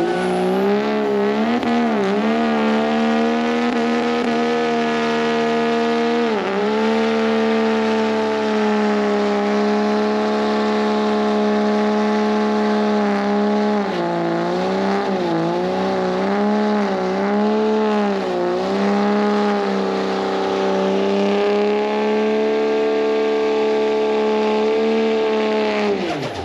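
A truck engine held at high revs, its pitch steady but dipping and wavering several times, then dropping away suddenly near the end.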